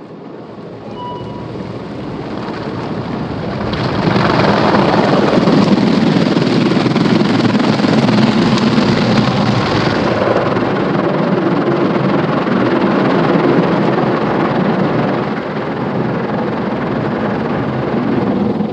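Automatic car wash machinery working over the car, heard from inside the cabin: a loud, steady rush of spray or air that builds over the first four seconds and falls away right at the end.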